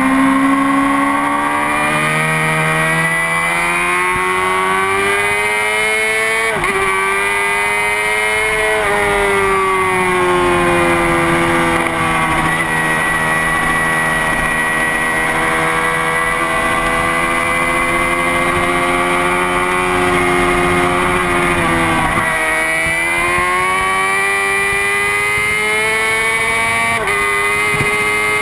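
Honda CBR600RR inline-four sport bike engine at racing speed, heard onboard with wind rush. Its pitch climbs and breaks off abruptly at gear changes several times, and holds a long, slowly falling note through the middle.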